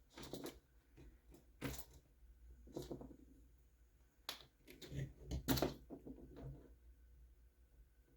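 Irregular clicks, knocks and rattles of small plastic and metal parts being handled and set down on a work surface, a handful of louder knocks spread through.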